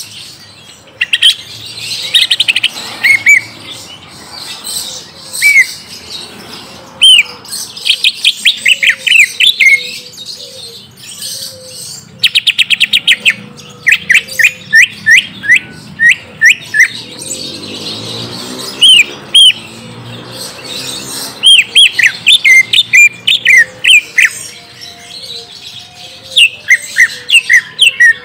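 Greater green leafbird (cucak ijo) calling loudly: bursts of sharp, upswept chirps in quick series, with rapid trills in between.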